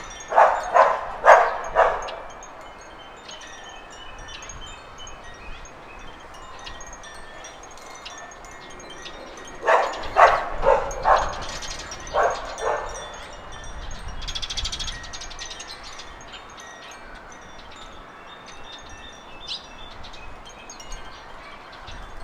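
Garden birds chirping and trilling, with two runs of short, loud, harsh calls: four or five at the start and six or seven about ten seconds in. A rapid high trill follows a few seconds after the second run.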